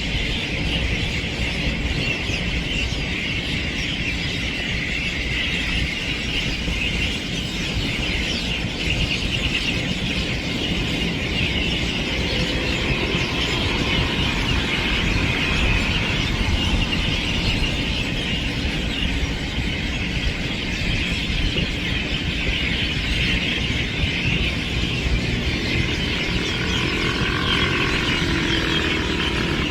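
A dense chorus of many birds chirping and chattering steadily, over a constant low rumble.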